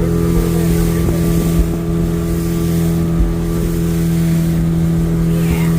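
Motorboat engine running at a steady, unchanging pitch, with wind buffeting the microphone.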